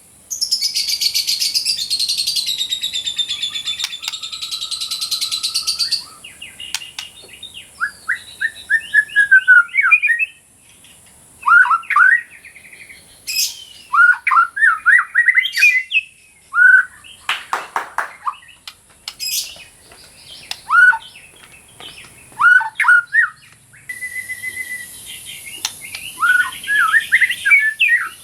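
White-rumped shama (murai batu) singing: a dense buzzing rattle for the first six seconds, then a long run of short, loud whistled phrases that sweep up and down, separated by brief pauses.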